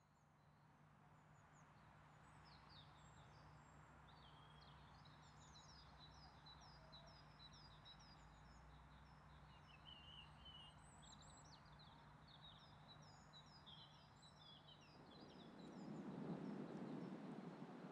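Faint songbird song: runs of short, quickly repeated chirping notes over quiet outdoor ambience and a faint steady hum. A low rumble rises near the end.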